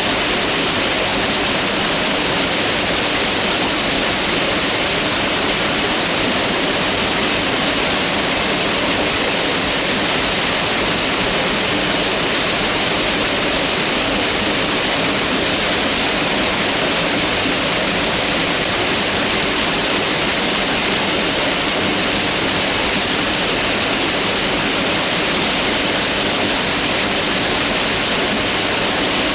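Mountain river rushing steadily over rocks, a loud, even, unbroken roar of water.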